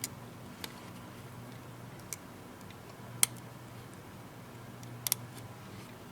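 Scattered sharp clicks and taps of small tools and parts handled on a tablet's frame during reassembly: about six, spread irregularly, with a quick double click about five seconds in, over a faint steady low hum.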